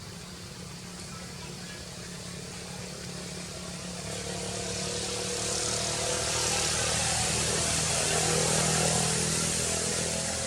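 A motor vehicle's engine hums steadily with a rushing noise that swells to a peak past the middle and then fades.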